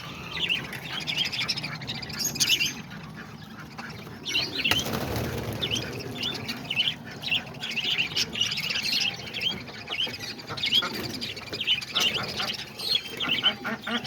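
A flock of parakeets chirping busily in short, rapid calls, with a rush of wing flapping about five seconds in.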